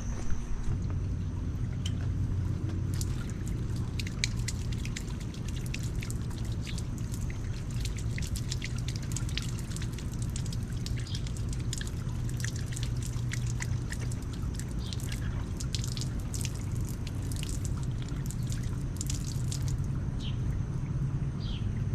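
Rain dripping and splashing, many small drop ticks scattered irregularly over a steady low rumble.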